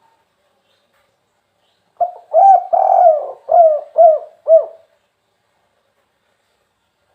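Spotted dove (tekukur) of the 'kuk 3' song type, singing one cooing phrase about two seconds in. The phrase has a short opening note and a longer drawn-out coo, then closes with three short, evenly spaced arched 'kuk' notes.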